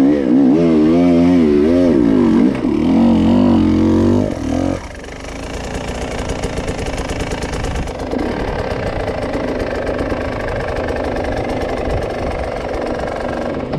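Enduro motorcycle engine revving up and down in quick swings of throttle, then settling after about five seconds into a quieter, steadier running.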